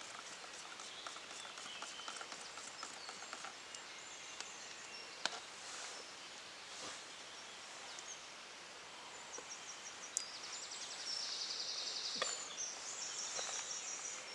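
Faint outdoor background with insects chirping in bursts of rapid high ticking, loudest near the end, and a few sharp clicks.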